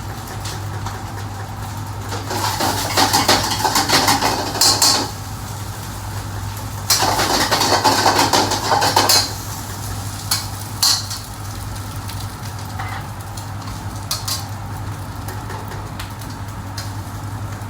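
Metal pots, pans and utensils clattering and scraping in a restaurant kitchen, in two spells of a few seconds each with a few single clinks between, over a steady low hum.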